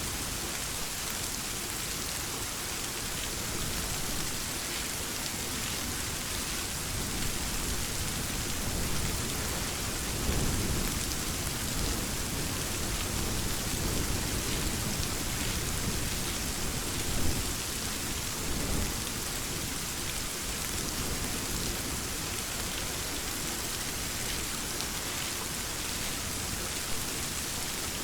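Steady rainfall with low thunder rumbling, swelling about a third of the way in and again a little past the middle.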